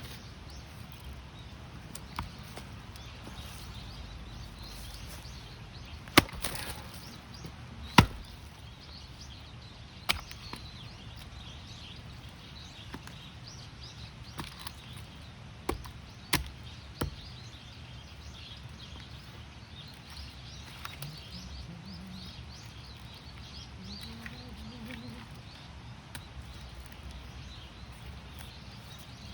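Axe blows on firewood: about half a dozen sharp, separate strikes at irregular intervals, the two loudest about a quarter of the way in, then a quick group of three a little past the middle. The wood is knotty and hard to split.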